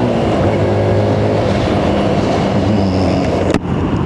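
Benelli BN 125's single-cylinder engine running as the motorbike rides along, with wind rushing over the microphone. A sharp click comes about three and a half seconds in.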